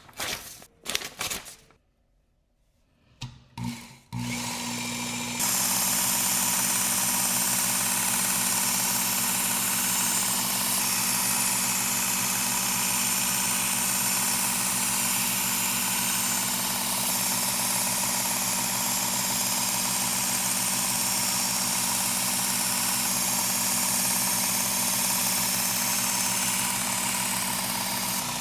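A few short knocks, then about four seconds in a Work Sharp Ken Onion belt sharpener's motor starts and runs with a steady hum. About a second later the abrasive belt starts grinding a steel Damascus chef knife edge with a loud, even hiss that holds steady.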